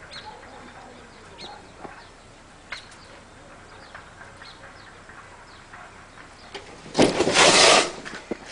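A firecracker bomb set inside a refrigerator going off: one loud blast about seven seconds in, lasting just under a second, strong enough to blow out the fridge's back. Faint bird chirps before it.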